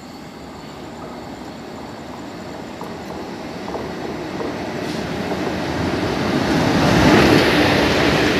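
Passenger train hauled by an electric locomotive approaching and running past along the platform: a rumble of wheels on rail that grows steadily louder, loudest as the locomotive goes by about seven seconds in.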